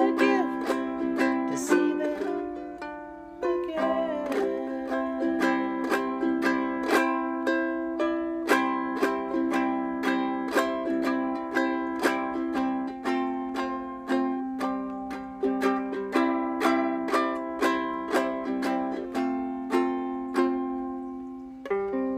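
Ukulele strummed in a steady rhythm, about two strokes a second, playing the instrumental close of a country song. A final chord near the end rings out and fades.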